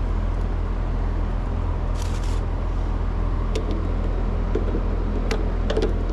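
A steady low mechanical hum, with a short rustle about two seconds in and a few sharp clicks and taps in the second half, like hands and tools handling wiring.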